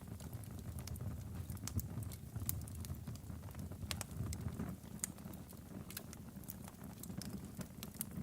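Wood logs burning in a fireplace, crackling: irregular sharp pops and snaps over a low, steady rumble of the flames.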